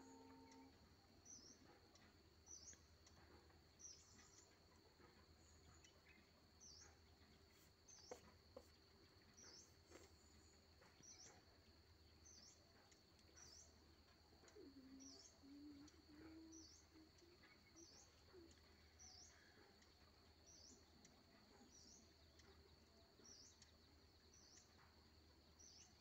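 Very faint outdoor ambience: an unseen bird gives a short, high chirp about once a second throughout, over a steady high-pitched whine and a low hum.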